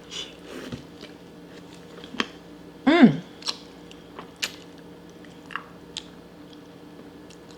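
Close-up eating of boiled blue crab: biting and chewing, with scattered sharp clicks and cracks. About three seconds in there is a short vocal sound that slides up and then down in pitch, the loudest thing here.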